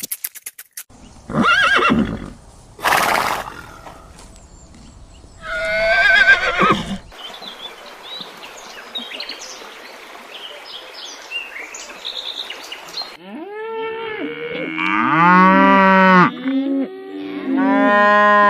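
A sequence of farm animal calls: short calls, then a wavering horse whinny, a stretch of faint high chirps over background noise, and near the end several animals calling over one another in repeated rising-and-falling cries.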